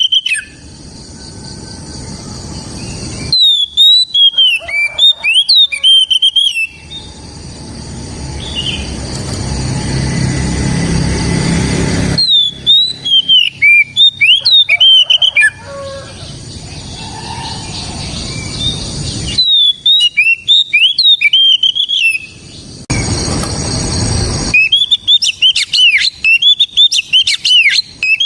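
Oriental magpie-robin singing in bursts of rapid, sharp whistled notes a few seconds long. Between the bursts are stretches of hissing noise, and song and noise switch abruptly. The song turns fast and dense near the end.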